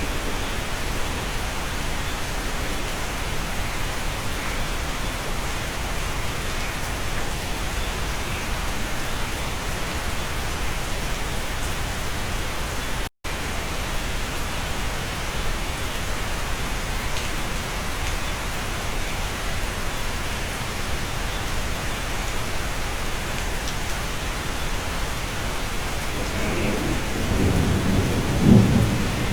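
Steady rain heard from inside a cabin, an even hiss of falling water. A low rumble of thunder builds near the end, and the sound cuts out for an instant about halfway through.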